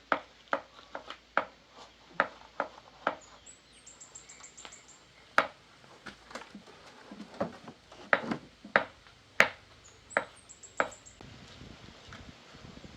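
A series of irregular, sharp knocks and taps, as in hand-tool work such as hammering. Twice a short, high chirping trill is heard.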